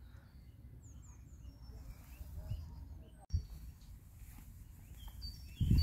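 Small birds chirping: short, high, downward-sliding notes, a few near the start and a quicker run of them near the end, over a low, uneven rumble of wind on the microphone. The sound breaks off sharply for an instant about three seconds in.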